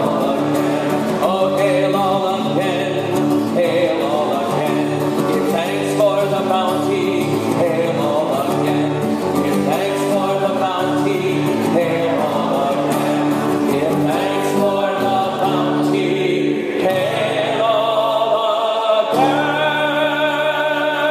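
Sung folk hymn of thanksgiving with a steady accompaniment of sustained chords that change about once a second; voices drop back briefly a few seconds before the end and then come in again fuller, as if the congregation joins the echo line.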